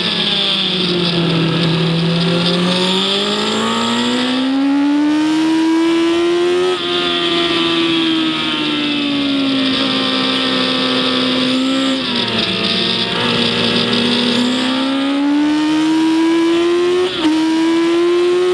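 Engine of a vehicle lapping a race circuit, heard onboard: its pitch falls, then climbs steadily under acceleration, eases off, drops sharply about twelve seconds in, climbs again, and breaks briefly near the end, as at a gear change.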